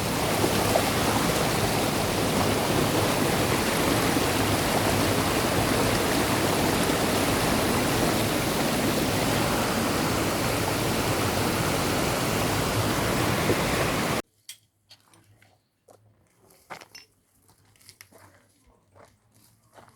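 Steady rush of flowing water, loud and even, which cuts off abruptly about fourteen seconds in. After that only a few faint clicks are heard.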